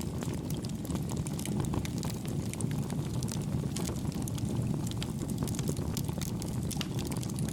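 Wood campfire burning steadily: a low rumbling burn with many soft, small crackles and pops scattered throughout, none standing out.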